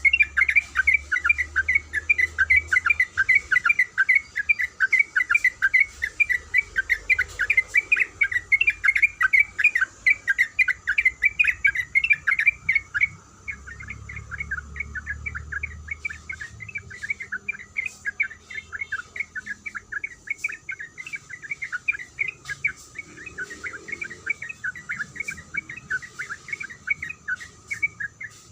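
Yellow-vented bulbul (trucuk) calling in a long, continuous run of short chirping notes, several a second, with a brief pause about 13 seconds in. A faint steady insect-like hum sits behind it.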